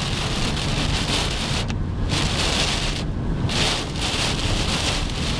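Heavy rain pelting a moving car's windshield and roof, heard from inside the cabin as a dense, steady hiss over a low rumble of road noise.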